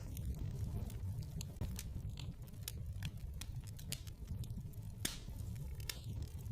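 Wood fire crackling in a fireplace: a steady low rumble of the flames with irregular sharp pops and snaps, two or three a second.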